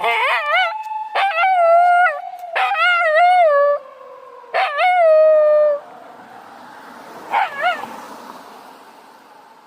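Black Shiba Inu howling in answer to a police car siren: four long, wavering howls one after another, then a shorter, weaker one about seven seconds in. The siren's slow wail is faintly heard between the howls.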